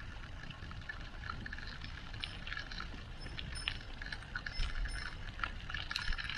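Bicycle being ridden over a bumpy woodland trail: scattered small clicks and rattles from the bike over a steady low rumble.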